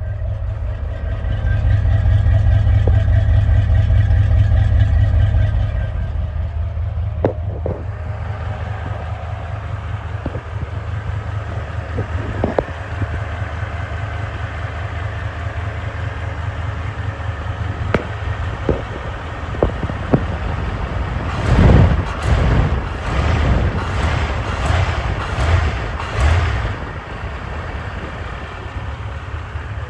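Chevrolet C30 truck's 350 V8 running at idle after a cold start, a steady drone that is louder for the first few seconds. About two-thirds of the way through comes a series of about six loud sudden surges.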